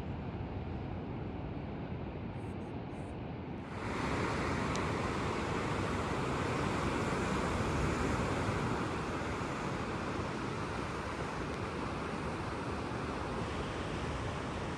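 Sea surf washing on the shore: a steady hiss that jumps louder about four seconds in, swells, then eases a little. Before the jump there is a lower, duller rumble of wind and water.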